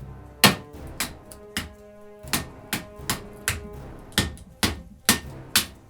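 A quick run of about a dozen sharp knocks, roughly two a second, from strikes on a D2-steel folding knife during a torture test, with background music beneath.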